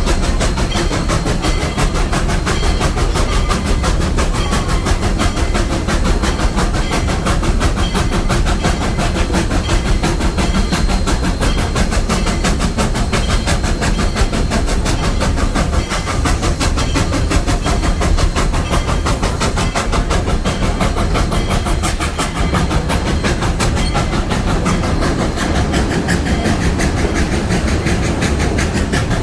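Steam train rolling along the track: a loud, steady rumble with a fast, continuous rattle of wheels and running gear.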